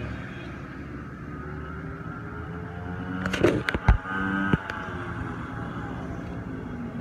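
An engine running, its pitch rising and falling, with a few sharp knocks a little past the middle.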